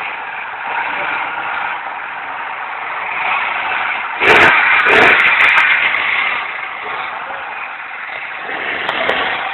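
Speedboat's outboard engine running, with a louder surge about four seconds in that lasts a couple of seconds before settling back to a steady run.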